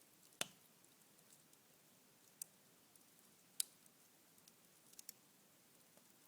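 Cherry wood embers in a fireplace crackling faintly: a few scattered sharp pops and ticks, the loudest about half a second in and a quick pair near the end.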